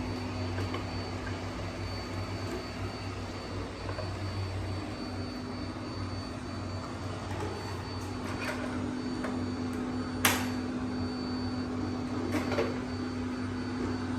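Robot vacuum cleaner running with a steady motor hum and a faint high whine, with a sharp click about ten seconds in and a few lighter knocks.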